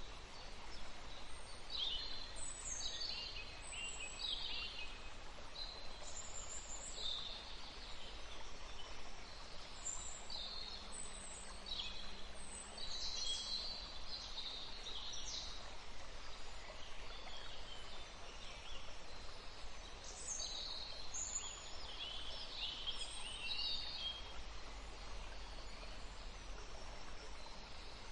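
Songbirds chirping and singing: short, high chirps and trills come in clusters, with a lull a little past the middle before another burst, over a steady background hiss.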